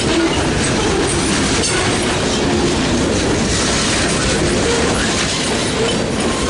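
Freight train cars rolling past in a steady, loud rumble, with wheels clicking over rail joints.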